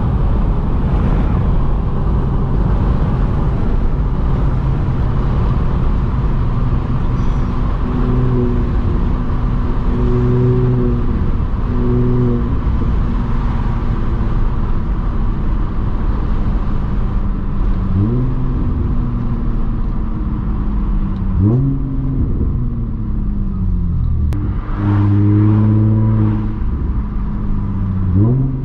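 Audi S4 B8.5's supercharged 3.0-litre V6 through an AWE exhaust on test pipes, running steadily under way. Near the end the revs climb sharply three times, and the pitch eases back down after each.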